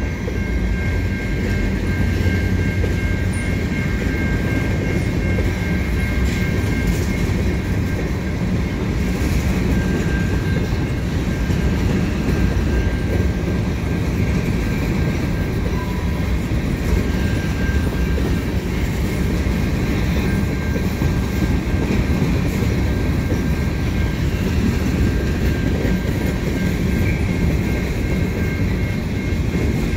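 CN freight train of hopper cars rolling past as it rounds a curve: a steady low rumble with wheels clacking over the rail joints and a thin, steady high-pitched squeal, typical of wheel flanges on a curve.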